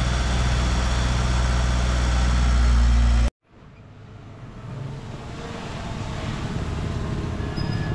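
Heavy diesel construction machinery engine running steadily with a deep low hum, which cuts off abruptly about three seconds in; after a brief silence another machine's engine fades in and grows gradually louder.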